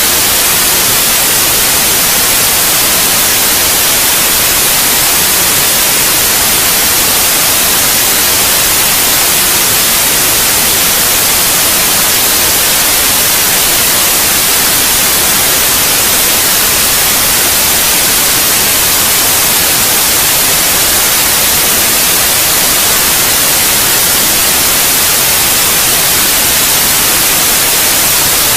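Steady white noise: a loud, even hiss, brightest in the high range, with no change throughout.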